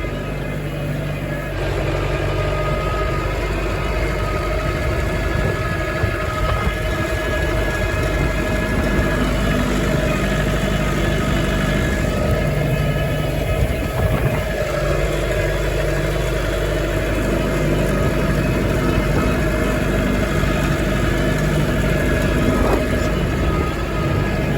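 Massey Ferguson tractor's diesel engine running steadily while pulling a hay rake, getting a little louder about a second and a half in.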